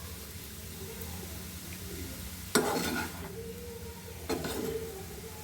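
A spoon stirring and scraping a dry vegetable stir-fry (beetroot-leaf thoran) in a pan, with two short clatters of metal on the pan, about two and a half and four seconds in, over a faint steady hum.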